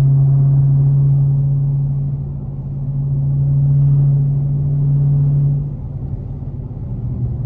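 Dodge Hellcat's supercharged V8 droning steadily while cruising on the highway. The low drone dips once, swells back, then drops away sharply near the end.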